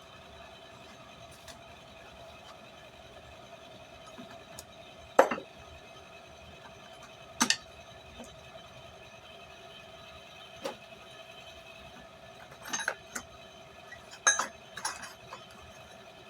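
Scattered metallic clinks and knocks, about half a dozen at irregular intervals, the loudest about five seconds in, over a steady background hum.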